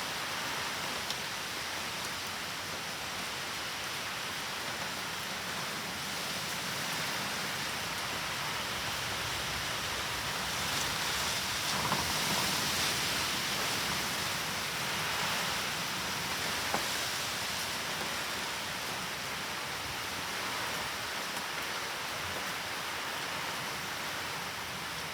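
Steady typhoon rain falling on surfaces, swelling a little louder about halfway through, with a few faint drips and taps.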